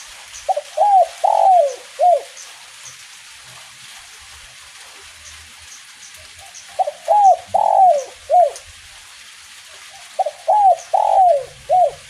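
Spotted dove (derkuku) cooing its 'kuk 1' song: three phrases of about four deep, falling notes each, some five seconds apart, over a steady hiss of light drizzle.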